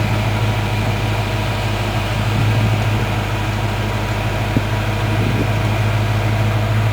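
Ford 302 V8 engine of a 1982 Toyota 4x4 pickup running at a steady pace, a constant low drone.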